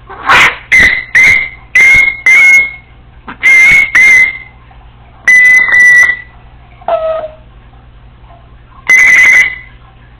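Congo African grey parrot giving a series of about ten loud, short whistled notes, mostly on the same high pitch, with one lower, falling note near the middle.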